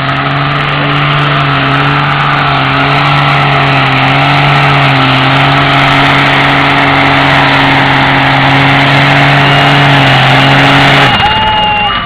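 A modified truck engine held at high revs, loud and steady in pitch, during a competition run; it cuts off suddenly near the end.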